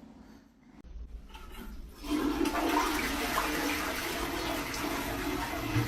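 Toilet flushing: a steady rush of water that starts about two seconds in.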